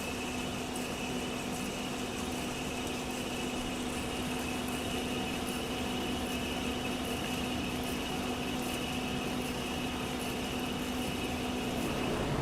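Large Waldrich plano milling machine running steadily as it rough-mills a heavy high-alloy steel plate: an even mechanical hum with several held tones and faint light ticks.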